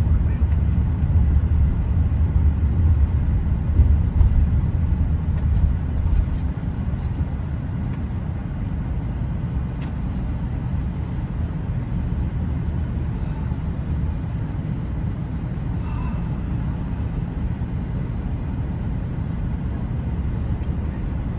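Steady low rumble of a moving vehicle, louder for the first six seconds and then holding even.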